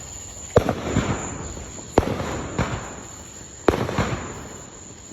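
Fireworks bursting: three sharp bangs about a second and a half apart, each trailed by a fading echo and a few smaller pops.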